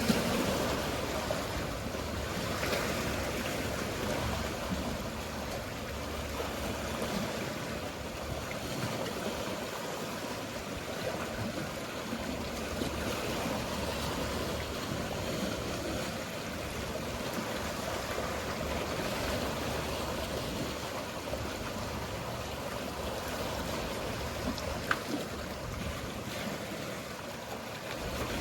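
Sea water washing and lapping steadily with a constant rushing hiss and some low rumble, with one short sharp tick about 25 seconds in.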